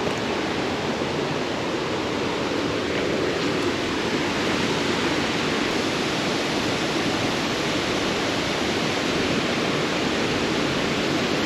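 Waterfall running high after heavy rain: a steady, unbroken rush of falling water heard close to the falls.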